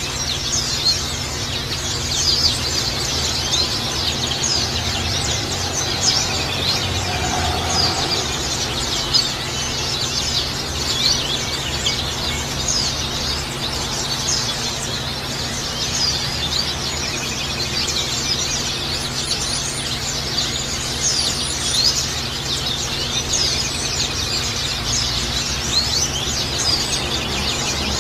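White-eyes (pleci) chirping and twittering nonstop, many fast high chirps overlapping over a steady background hiss.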